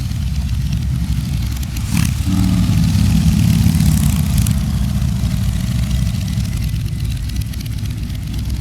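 Motorcycle engines running with a low rumble; about two seconds in, a louder engine note comes up and fades again over the next few seconds.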